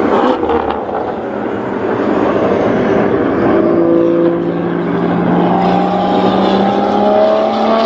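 A MotoGP safety car's engine under load, accelerating, its pitch climbing slowly and steadily through the second half.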